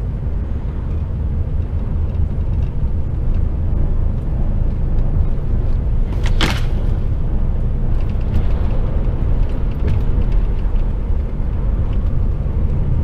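HGV container truck's engine and road noise inside the cab: a steady low rumble, with one sharp knock about six and a half seconds in.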